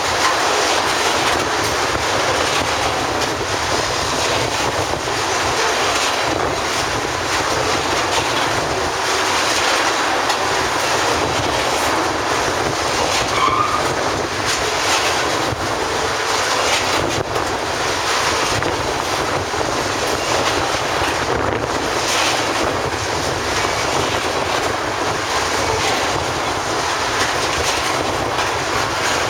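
Loaded oil train's tank cars rolling past, a steady rumble with the clatter of steel wheels over the rail joints.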